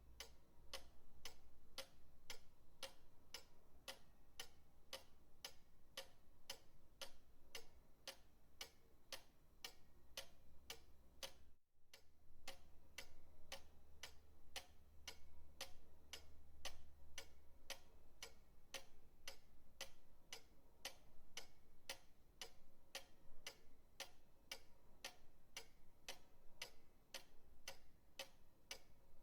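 Pendulum clock ticking steadily at about two ticks a second, the ticks alternating stronger and weaker as tick and tock. There is a brief drop-out a little before the middle.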